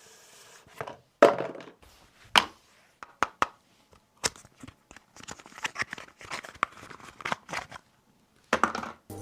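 Packaging being handled and opened: scattered knocks and clicks, then a few seconds of crinkling and tearing of cardboard and plastic wrap.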